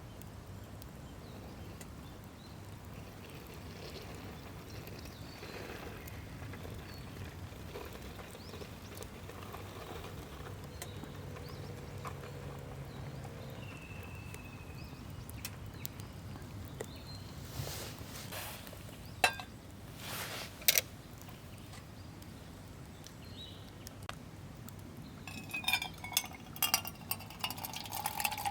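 Camp cups and cookware clinking as they are handled, with two sharp clinks around the middle and a run of quick clinks near the end. Liquid then starts pouring into a vessel, a steady filling sound.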